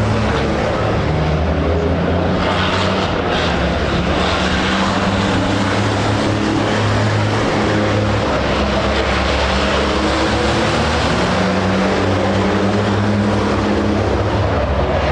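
Racing truck engines running hard, a loud, steady low drone of several engines whose pitch shifts in steps as they change speed.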